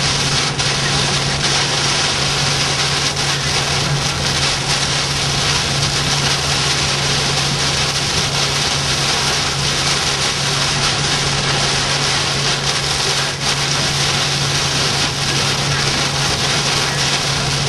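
Steady road and engine noise of a moving car heard from inside the cabin, with a constant low drone under a loud rushing hiss.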